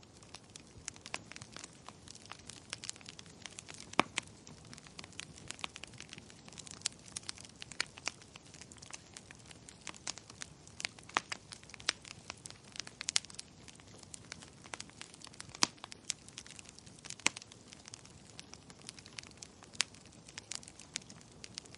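Wood fire crackling in a fireplace: a steady run of irregular pops and snaps, a few louder ones standing out, over a faint hiss.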